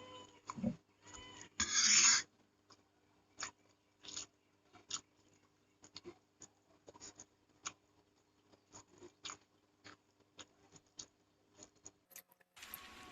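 Close-up eating sounds of a person chewing fried instant noodles (mie goreng): scattered soft mouth clicks and smacks, with a louder wet slurp-like burst about two seconds in. Music fades in near the end.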